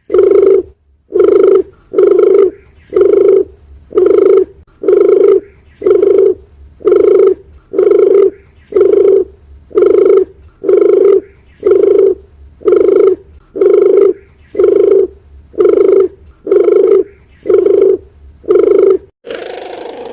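Dove cooing: a single short, low coo repeated about once a second, some twenty times in an even, unchanging rhythm.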